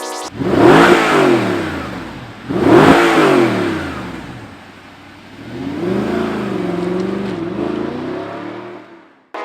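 Audi R8 4.2-litre V8 through a Topgear Valvetronic F1 aftermarket exhaust, revved sharply twice, the pitch rising and falling each time about two seconds apart, then running at lower revs with a wavering note that fades away.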